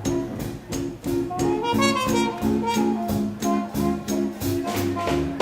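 A live swing band plays an instrumental passage: short rhythm chords struck on the beat under a moving melody line, with regular cymbal strikes from the drums.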